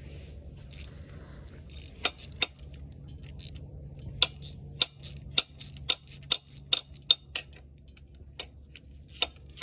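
Hand ratchet wrench clicking as it runs out a bolt on an engine. The clicks are separate and sharp, starting about two seconds in and coming at about two a second through the middle, over a steady low hum.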